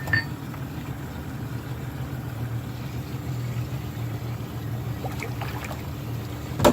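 A motor engine running with a steady low hum, with a few faint ticks about five seconds in and one sharp, loud click at the very end.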